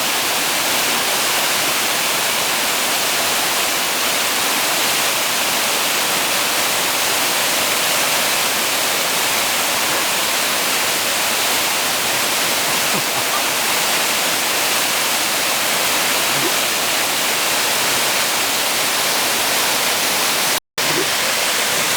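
Small waterfall rushing, a steady even roar of falling water that cuts out for a split second near the end.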